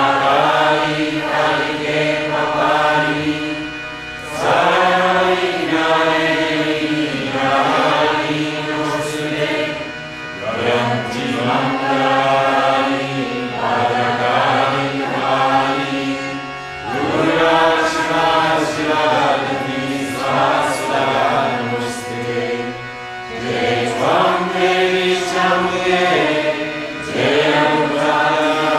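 Sanskrit devotional mantras chanted melodically, in sung phrases a few seconds long with short breaks between them, over a steady low drone.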